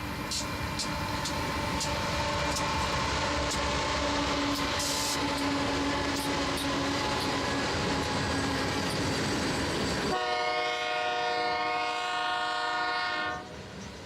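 Mixed freight train rolling past, its wheels clicking over the rail joints under a steady rumble while the locomotive horn sounds. About ten seconds in the rumble drops away abruptly and a clear horn blast holds for about three seconds before cutting off.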